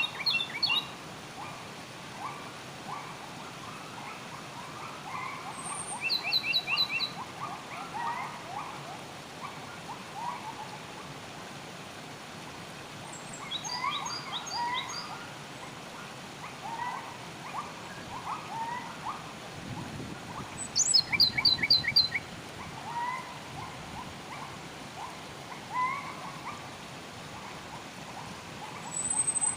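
Several wild birds singing over a steady background of flowing water. Short chirps repeat throughout, with brief high rapid trills about 6, 13 and 21 seconds in; the one near 21 seconds is the loudest.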